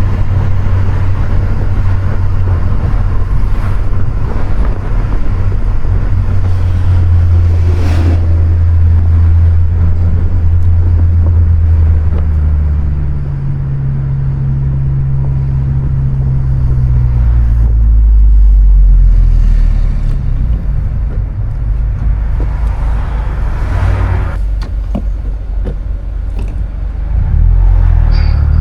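2020 Honda Civic Si's turbocharged 1.5-litre four-cylinder engine running under way with a steady low drone and road noise, its pitch stepping up and down several times as the manual gearbox is worked through the gears. The engine is loudest a little past halfway, with a couple of short knocks early on.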